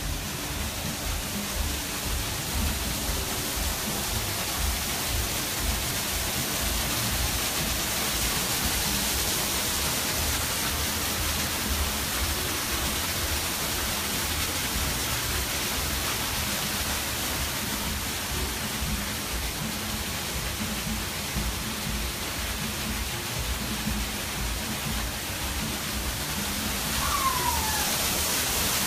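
Steady rush of falling water from a waterfall, with a short falling whistle near the end.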